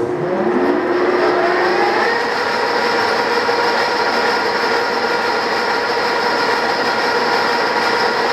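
Large Mazak engine lathe spindle and headstock gearing spinning up at low speed, several tones rising together for about two seconds, then running steadily with a gear whine over the motor hum.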